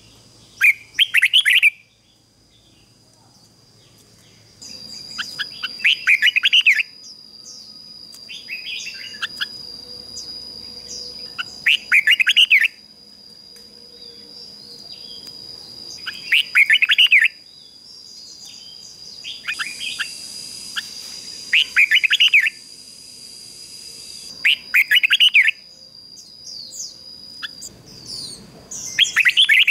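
Red-whiskered bulbul singing, repeating short, loud warbled song phrases about every five seconds. A steady high-pitched whine runs underneath through most of it.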